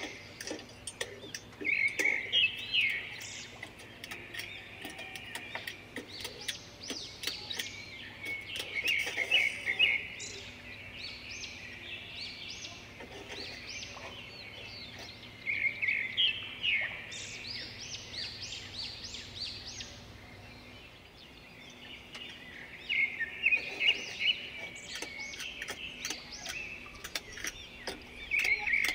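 A songbird singing repeated phrases of rapid chirps, one phrase about every six or seven seconds.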